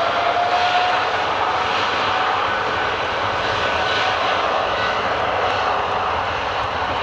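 Boeing 777-300ER's GE90 jet engines at takeoff thrust: a steady roar with a fan whine that rises in pitch and levels off about a second in.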